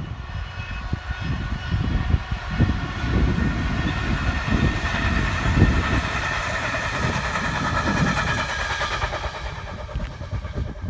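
Diesel-hauled freight train of engineering wagons passing: the locomotive's engine and the wagons' wheels on the rails make a deep rumble. It builds over the first couple of seconds, is loudest around the middle, then eases a little near the end.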